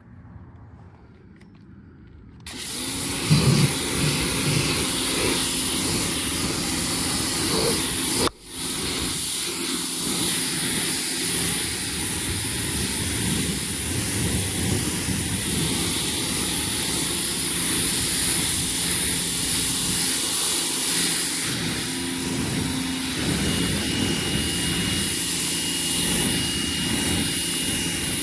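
Car-cleaning machine running: a loud, steady hiss over a motor hum that starts about two seconds in, cuts out for a moment about eight seconds in, then runs on steadily.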